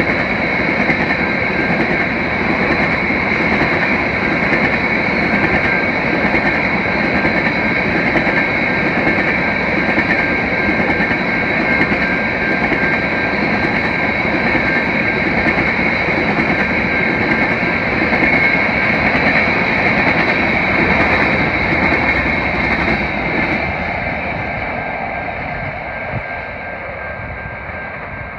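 CN freight train of tank cars rolling past on the rails, a steady loud rail noise with thin high-pitched tones over it. It fades over the last few seconds as the end of the train passes and moves away.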